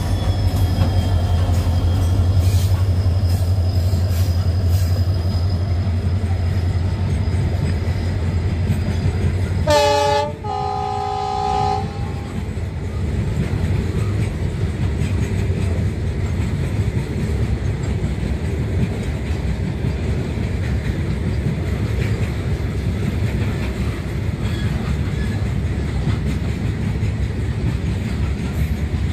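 WDP4 diesel locomotive, an EMD 16-cylinder two-stroke, passing at speed with a goods train: a steady low engine drone for the first ten seconds or so, then a short horn blast. After that comes the steady rolling rumble and clatter of the freight wagons' wheels on the rails.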